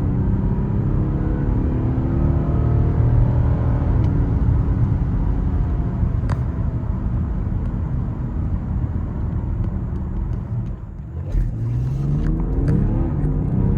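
BMW X7 xDrive40d's six-cylinder diesel pulling hard under full acceleration, its note climbing through the gears with a shift about four seconds in, over rising tyre and wind noise. Near the end the sound dips briefly, then the engine note climbs again.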